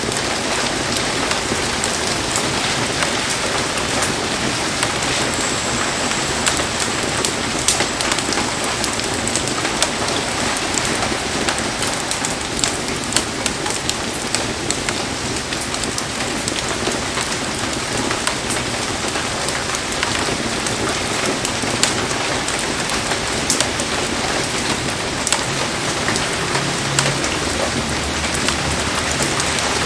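Heavy rain falling steadily, with a dense scatter of sharp drop hits.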